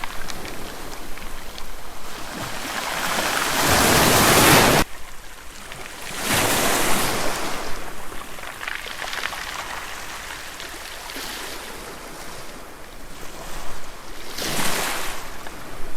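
Waves washing in on a shore, the rush of water rising and falling in swells every few seconds, with wind buffeting the microphone. The loudest swell drops off suddenly about five seconds in.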